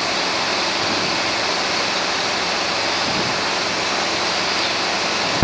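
Steady rushing cabin noise of a Robinson R22 helicopter in cruise flight, an even roar with no change in level.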